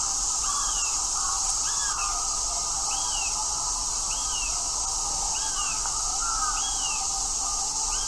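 A bird calling a short rising-and-falling note about once a second, over a steady high hiss.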